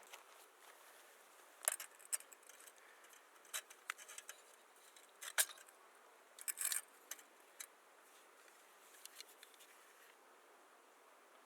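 Small hard objects being handled, giving a scattered series of short, sharp clinks and clicks, a small cluster of them about two thirds of the way in.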